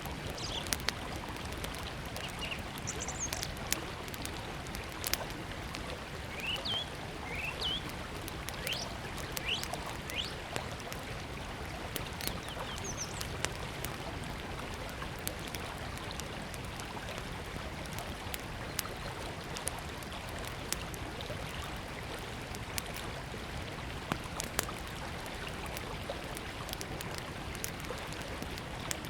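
Small wood fire crackling, with sharp snaps and pops scattered throughout, over the steady rush of a river. A bird chirps with short rising notes during the first half.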